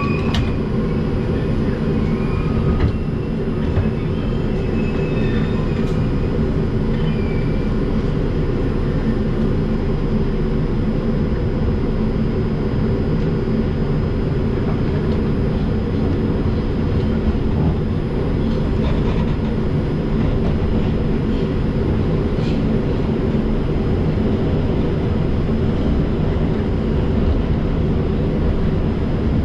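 Inside an R142 subway car running through the tunnel: the steady rumble of wheels on rail and the car's running noise, with a faint wavering whine in the first few seconds.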